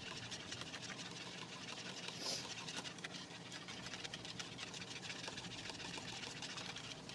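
Wire whisk beating a thin soy sauce, sesame oil and honey mixture in a bowl: rapid, steady light clicking of the wires against the bowl.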